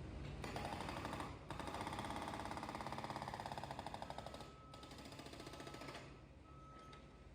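Hydraulic breaker on a Kubota U48-4 compact excavator hammering in a fast, even run of blows, pausing briefly about a second in and again around four and a half seconds, then stopping about six seconds in. The excavator engine hums underneath, and a steady high tone sounds on and off near the end.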